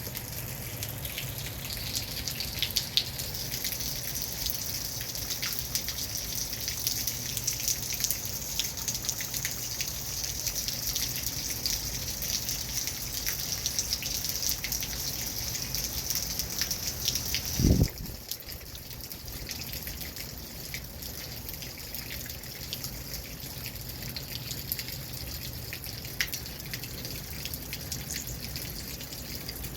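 Rain falling and dripping in a steady hiss, with many small drop clicks. About eighteen seconds in there is a brief loud low thump, and a high part of the hiss stops at the same moment.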